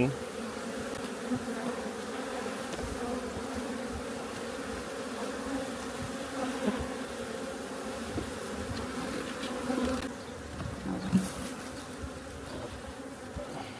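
Honeybees buzzing around an opened hive: a dense, steady hum of many bees.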